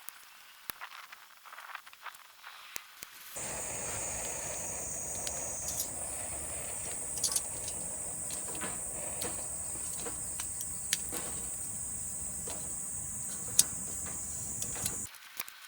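Cicadas buzzing in a steady, high, unbroken drone over a low rumble of wind on the microphone, with a few sharp clicks; the whole sound comes in suddenly about three seconds in and cuts off just before the end. Before it, only faint scattered ticks and clicks.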